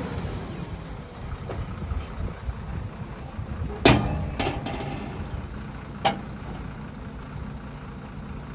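Borewell drilling rig's engine running with a steady low rumble, with sharp metallic clanks: a loud one about four seconds in, a second just after it, and another about six seconds in.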